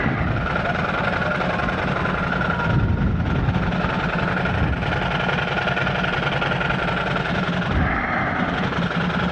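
Motorcycle engine running steadily, with engine and road noise heard through a helmet-mounted camera's microphone.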